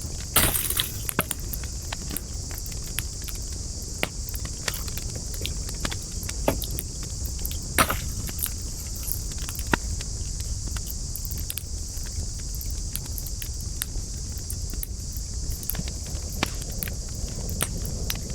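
Wood fire crackling, with scattered sharp pops, the loudest about half a second in and about eight seconds in, over a steady low rumble and a steady high hiss.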